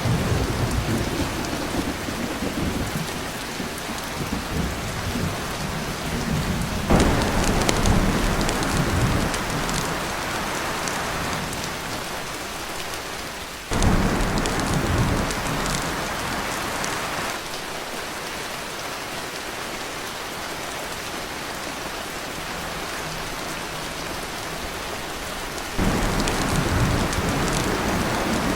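Heavy rain drumming on a tin roof, with thunder breaking in three times: about seven seconds in, about halfway through, and near the end, each peal rumbling and easing off over a few seconds.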